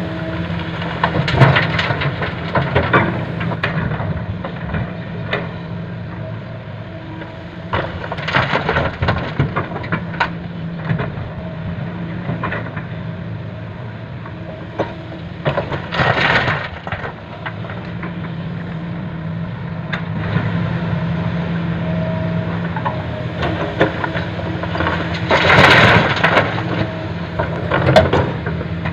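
Rocks crashing and clattering into a steel dump truck bed in several loads, over a diesel engine running steadily.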